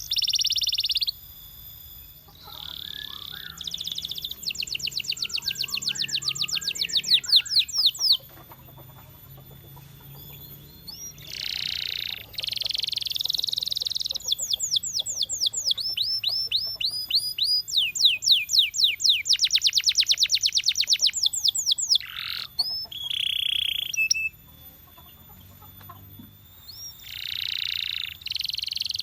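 Domestic canary singing: fast trills of rapidly repeated notes alternating with sustained buzzy rolls, broken by two quieter pauses of a few seconds, about a third of the way in and again near the end.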